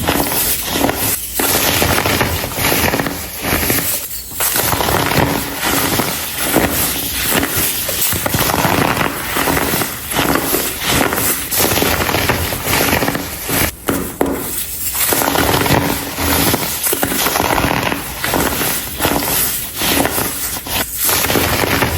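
Hardened baking soda clumps crumbled and crushed by hand, a dense, continuous run of crunching crackles with a few brief pauses.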